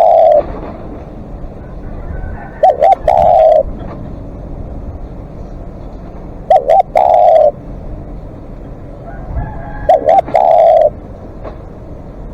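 Spotted dove cooing: a repeated phrase of two quick coos and then a longer drawn-out coo, given about every four seconds, three full phrases after the tail of one at the start.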